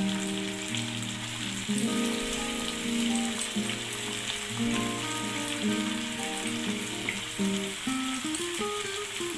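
Chicken pieces sizzling as they fry in hot mustard oil with lightly browned onions, a steady crackle with small clicks, over background music.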